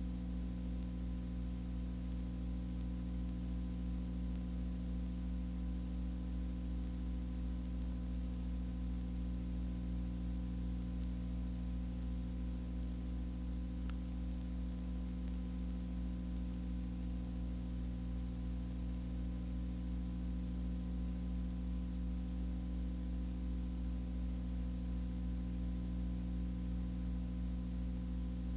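Steady electrical hum with a stack of even tones over a constant hiss, unchanging throughout, with one faint tick about halfway through.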